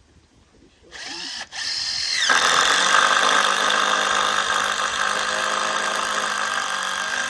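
Power drill driving a screw: it starts about a second in with a brief stop-start, then runs steadily at high speed as a continuous whine.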